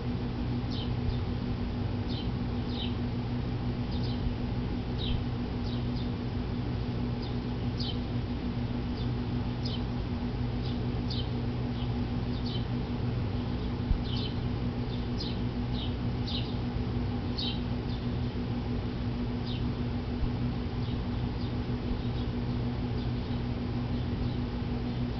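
Small birds calling with short, sharp, high chirps, about one or two a second, over a steady low hum; the chirps stop about three-quarters of the way through.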